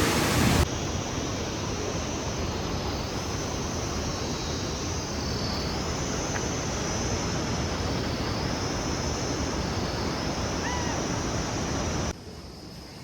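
Steady outdoor rushing noise, with a couple of faint bird chirps about eleven seconds in; it drops suddenly to a quieter hush near the end.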